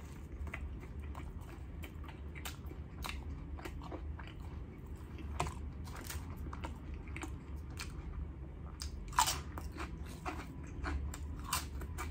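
Close-up chewing of a chopped cheese sandwich on a hero roll: a string of small, wet mouth clicks and crunches, with a louder crunch about nine seconds in.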